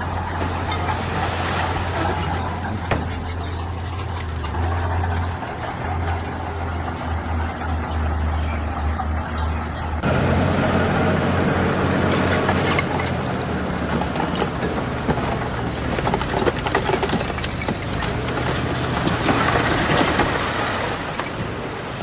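Heavy diesel construction machinery running under load, with a steady low engine hum. About halfway through the engine note changes and the sound turns rougher and louder.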